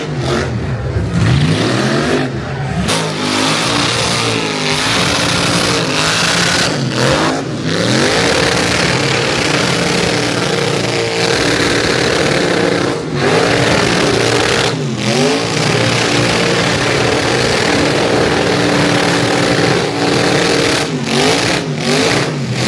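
A truck engine revving hard again and again, its pitch sweeping up and falling back many times, with brief sudden drops in between and a hissing noise over the top.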